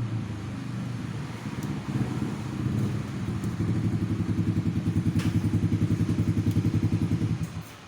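Motorcycle engine running with an even, rapid pulse, growing louder and then cutting off suddenly near the end.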